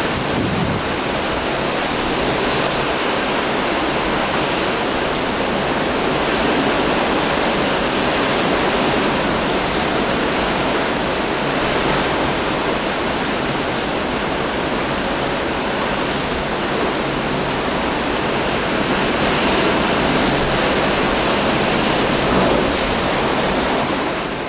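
Hurricane Wilma's wind, a loud, steady rushing noise with an unsteady low rumble of wind buffeting the microphone.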